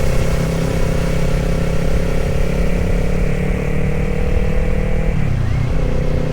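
Kawasaki Z500 parallel-twin engine running while riding, over wind noise; the engine note sinks slightly and falls away about five seconds in, as if the throttle is eased off.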